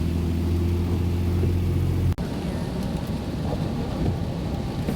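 Car engine running with a steady low hum. It cuts off abruptly about two seconds in, giving way to the rushing noise of the car driving on a rain-wet road.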